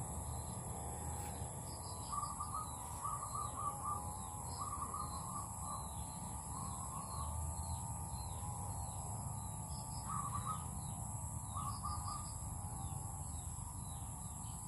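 Birds calling in the background: short clusters of quick chattering notes, repeated several times with gaps between them.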